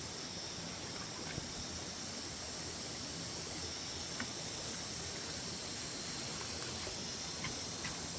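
Steady high-pitched hiss, with a few faint clicks.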